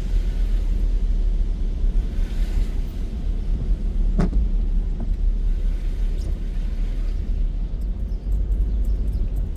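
A car driving on a wet road in heavy rain: a steady low rumble of tyres and engine with a faint hiss above it. There is a single sharp knock about four seconds in, and a few faint ticks near the end.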